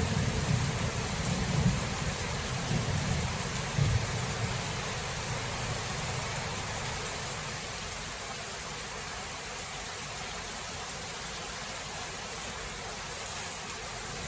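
Thunderstorm: steady rain hissing, with a low rumble of thunder that fades out a few seconds in, leaving only the rain.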